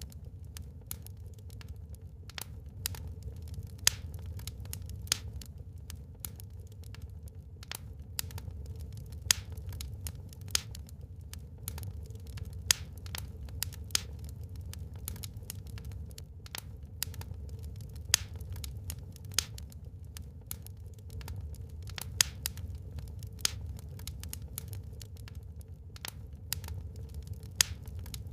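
Wood fire burning in a fireplace, crackling with sharp, irregular pops several times a second over a steady low rumble.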